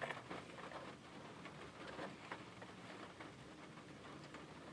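Faint handling noise: scattered small clicks and light rustling as headphones are fiddled with.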